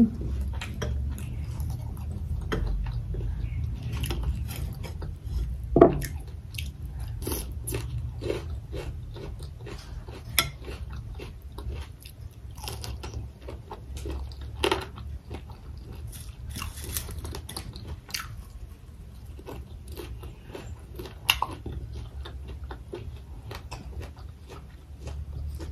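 Close-miked chewing and biting of fried pork, with many short crunches, mouth clicks and smacks, over a steady low hum.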